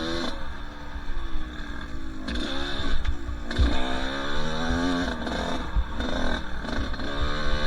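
Two-stroke dirt bike engine being ridden on a trail, its pitch rising and falling again and again as the throttle opens and closes, with low thuds underneath.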